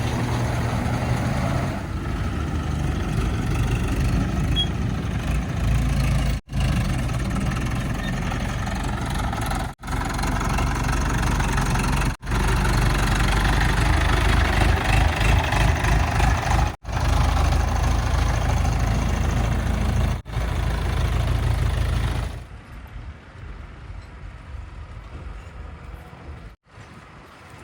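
Heavy diesel engines of a backhoe loader and tipper trucks running under load, with a loud, dense engine sound. It cuts out briefly five times, then drops suddenly to a much quieter engine sound about 22 seconds in.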